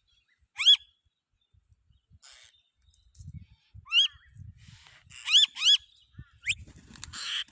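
A bird giving short, sharp calls: one about a second in, then several more in quick succession in the second half, two of them back to back.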